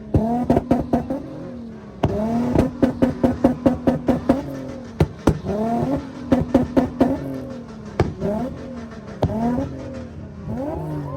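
Car engine revving up and down repeatedly, with runs of sharp exhaust pops and bangs between the revs.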